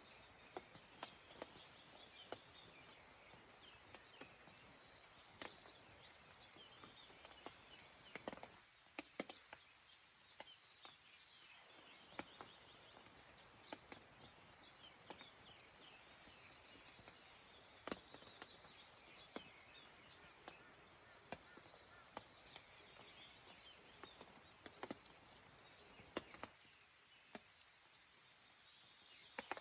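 Scattered water drops falling at irregular intervals in a light early-morning rain, with small birds chirping faintly in the background over a soft steady hiss.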